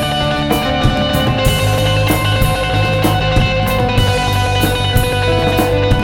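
Instrumental passage of a rock song: distorted electric guitars and bass holding sustained chords over a drum kit, with cymbal crashes about once a second.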